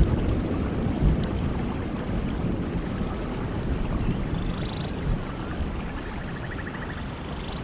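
Steady rain falling, with a low rumble of distant thunder dying away over the first few seconds. A faint short trill comes in near the end.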